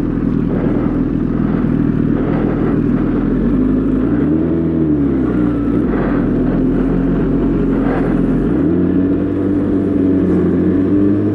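Suzuki GSX-R1000 sportbike's inline-four engine running under way. Its note is mostly steady, rising and falling in pitch about four seconds in and shifting again around eight seconds.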